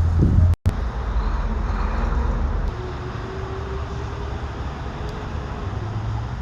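Mack semi truck's diesel engine running with a steady low hum. The sound cuts out completely for a moment about half a second in.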